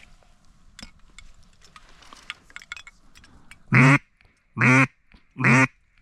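Three loud quacks, evenly spaced and each about a third of a second long, in the second half; faint clicks and rustles before them.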